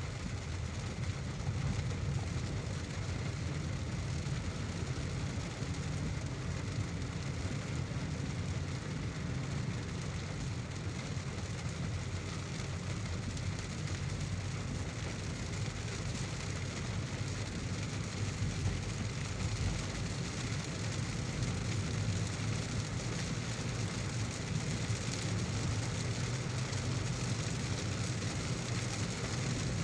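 Car driving in heavy rain: a steady low rumble of engine and tyres under the even hiss of rain.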